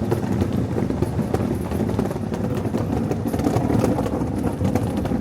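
Steady city street traffic noise from passing cars, with scattered light clicks over it.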